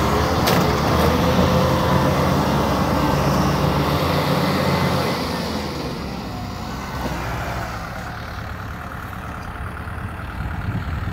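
Kubota M6040SU tractor's four-cylinder diesel engine running while the tractor is bogged in deep mud, loud for about the first five seconds and then easing to a quieter run. A sharp click about half a second in.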